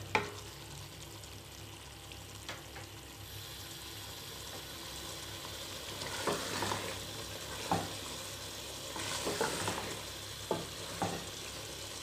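Chicken and capsicum curry sizzling as it is stir-fried (bhuna) on high heat in a metal pot, the gravy being fried down. A spoon scrapes and knocks against the pot every second or two, and the sizzle grows stronger after a few seconds.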